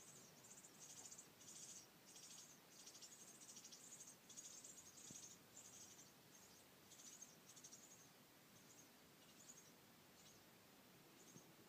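Faint, high-pitched, rapid chirping of baby birds in a nest, in a run of short bursts that come thick at first and grow sparser toward the end.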